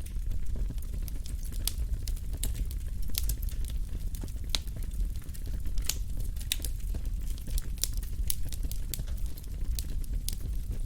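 Wood fire burning in a fireplace, with a steady low rumble and irregular sharp crackles and pops several times a second.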